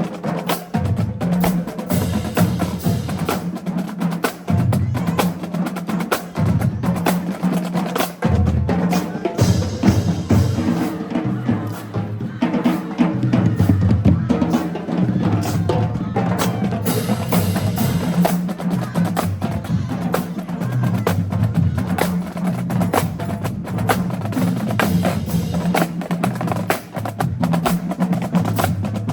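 Marching band drumline playing a cadence: rapid snare drum strokes and rolls with sharp stick clicks over pitched bass drums that move between low notes.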